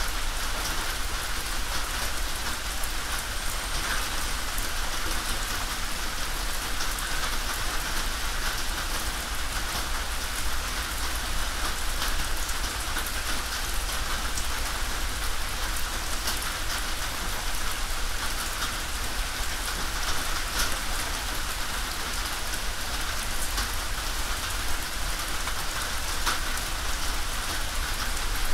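Steady rain falling on a tin roof: a dense, even patter of single drop hits over a constant hiss.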